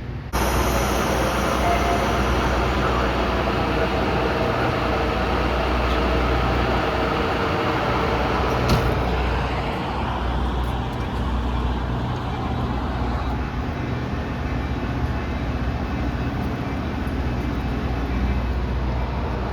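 A train passing close by: a steady, loud rolling rumble that starts abruptly just after the beginning, with a single sharp click about nine seconds in.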